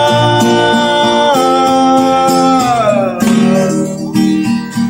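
A song sung in Spanish over a strummed acoustic guitar: the voice holds one long note that glides down about three seconds in, then sings a short phrase.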